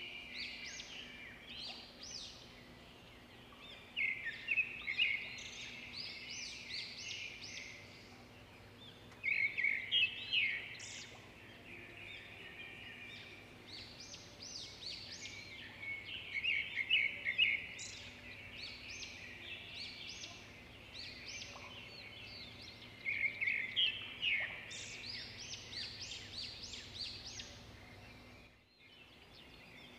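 Small birds chirping and twittering in repeated bursts of quick, high notes, with the loudest bursts about four, nine, seventeen and twenty-three seconds in.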